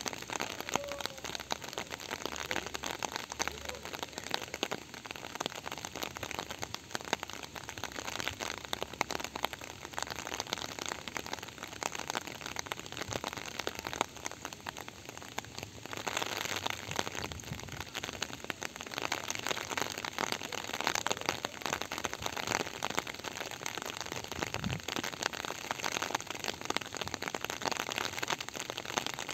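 Steady rain falling, with a dense patter of individual drops striking close by; it gets heavier a little past halfway.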